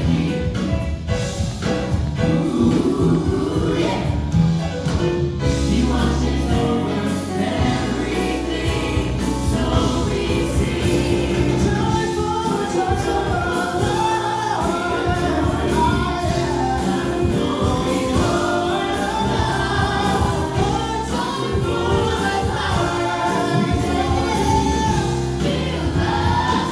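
Gospel-style music: a group of voices singing together over instrumental accompaniment, with sustained low bass notes.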